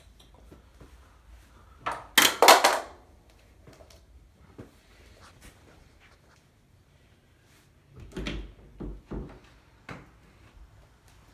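A door being handled: a loud scraping rattle about two seconds in, then a few dull thuds a few seconds later.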